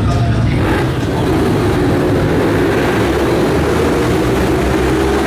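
Ducati 848 V-twin race-bike engines running together, a steady dense engine noise with no clear revving up or down.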